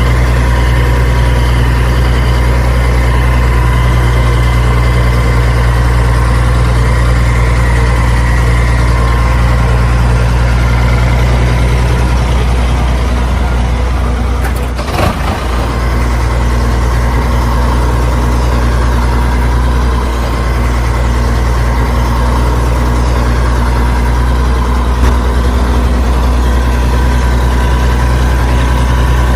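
Tractor engine idling steadily with a low, even throb. There is a brief click and dip about halfway through, then the idle carries on unchanged.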